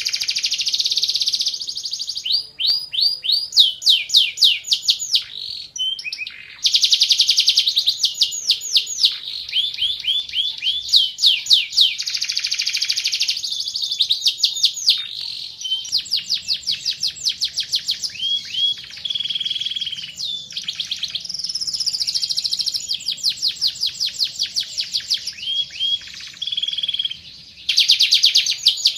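Domestic canary singing continuously in fast trills, each a quick run of repeated chirps, changing from one trill to the next with a couple of brief pauses.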